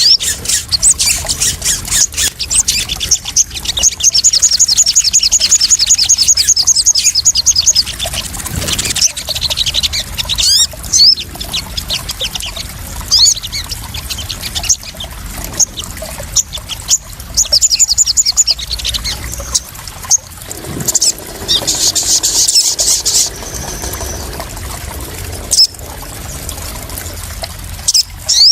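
Sogon sunbird calls: bouts of high, sharp chirps and a fast, even trill of about two seconds starting around four seconds in, over water trickling and splashing.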